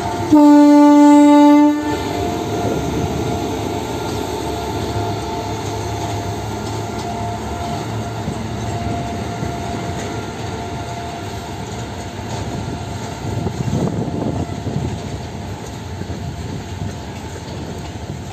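An electric locomotive's horn sounds one blast about a second and a half long near the start. Then a freight train of BCN covered wagons runs steadily past with rail clickety-clack.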